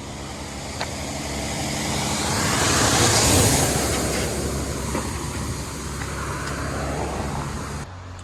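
A road vehicle passing close by, its tyre and engine noise swelling to a peak about three seconds in and then fading. The sound cuts off abruptly near the end.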